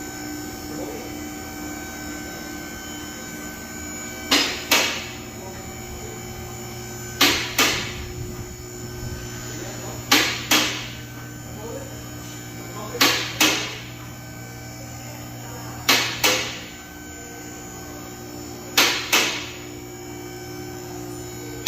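A steady hum with pairs of sharp knocks, two quick hits each time, repeating evenly about every three seconds, six pairs in all.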